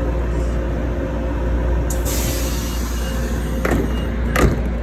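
Light-rail car on the Norristown High Speed Line standing with a steady low hum, a hiss of air starting about two seconds in, and two sharp knocks near the end.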